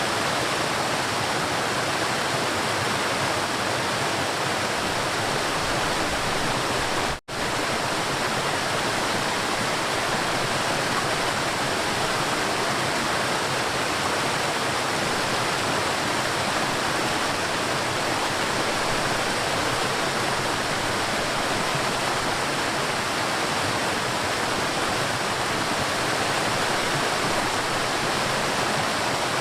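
River water rushing and splashing in a steady, unbroken roar. The sound cuts out for an instant about seven seconds in.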